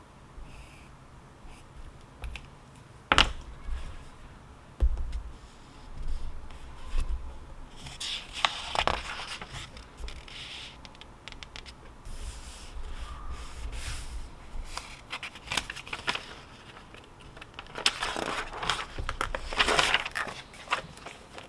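Paper being written on and handled: irregular scratching and rustling, louder in two stretches, with sharp knocks about three and five seconds in.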